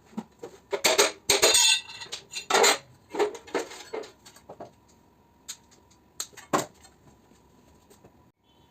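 Hard metal pieces clinking and clattering: a quick run of sharp clanks and rattles over the first four seconds or so, then a few single clinks, with a faint steady hum underneath.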